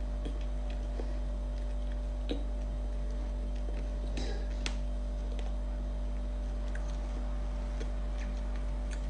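Faint, scattered mouth clicks and smacks of someone chewing a soft pretzel, over a steady low hum.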